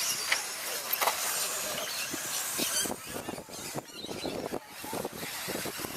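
A pack of 1/10 scale electric brushless RC stadium trucks racing on a dirt off-road track. Their motors whine high, rising and falling, over a steady hiss, with many short clattering knocks.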